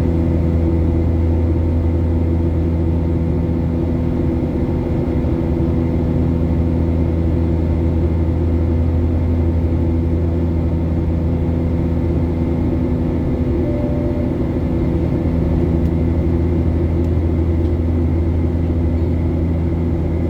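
Steady cabin drone of a Boeing 737-800 in its climb, the engines and rushing air making an even low hum with several held tones.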